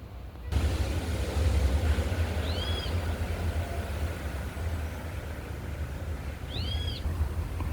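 A steady low rumble over a noisy outdoor background, with a bird giving a short arched chirp twice, about four seconds apart.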